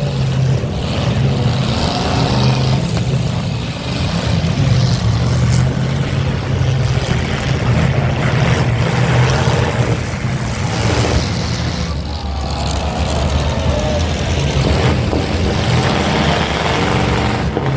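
Demolition derby cars' engines running loud and steady, swelling and easing as the drivers rev, with a few sharp knocks near the end.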